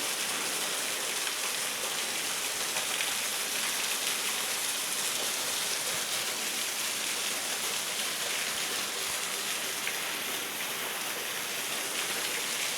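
A 37-foot waterfall pouring down: a steady, even hiss of falling, splashing water.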